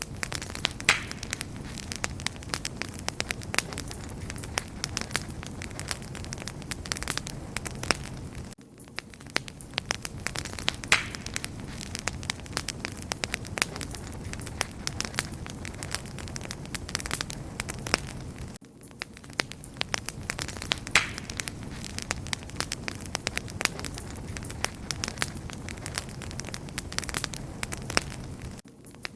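Wood fire burning, with dense crackling and frequent sharp pops over a steady low hiss. The sound dips briefly about every ten seconds.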